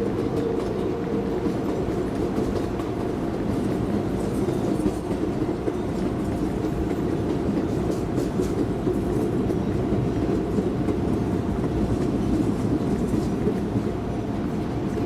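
New York City subway train running between stations, heard from inside the car: a steady rumble of wheels on rail with a faint steady hum and a few light clicks.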